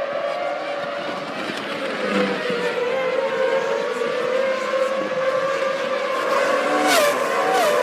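1998 Formula One car's V10 engine running at high revs, its pitch sagging slightly. Near the end come two quick gearshifts, each a sharp crack followed by a step in pitch.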